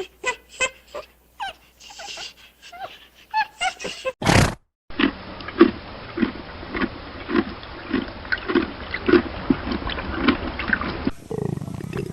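Animal vocalisations: a run of short, separate calls, a brief loud noisy burst, then a steady rhythmic series of low grunts about twice a second.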